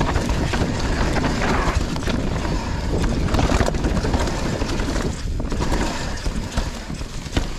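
Mountain bike riding down a loose dirt trail: tyres crunching over dirt and rocks and the bike rattling and knocking over bumps, with wind buffeting the camera microphone. The noise eases briefly about five seconds in.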